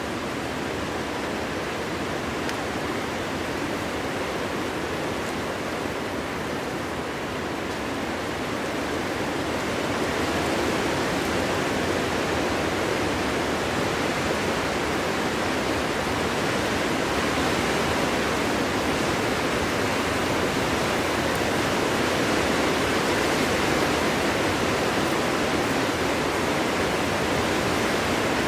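Wind blowing through a forest: a steady rushing without whistling tones, swelling a little louder about ten seconds in.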